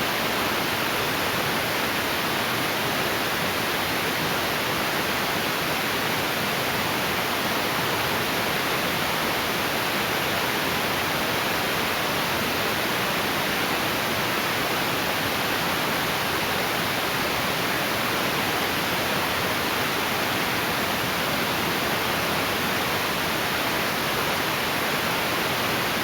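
Heavy rain falling in a downpour, a steady even hiss with no let-up.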